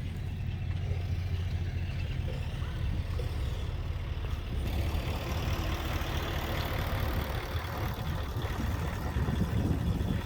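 A low, steady engine rumble, joined about halfway through by a louder rushing hiss.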